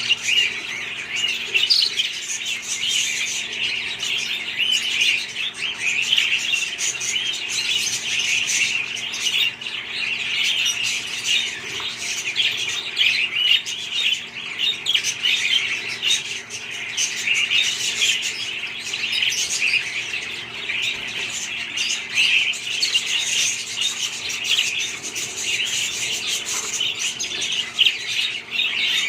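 A flock of budgerigars chirping and chattering continuously, many small calls overlapping with no pause.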